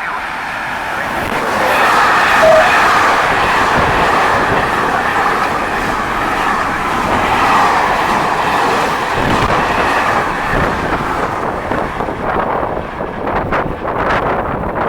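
Train running through the station without stopping: a loud, steady rush of wheels on rail that swells and eases as the cars go by.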